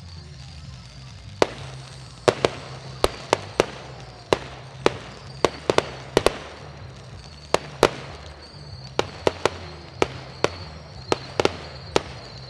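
Fireworks display: aerial shells bursting in a quick, irregular string of sharp bangs, about two a second, starting about a second and a half in, over a steady low hum.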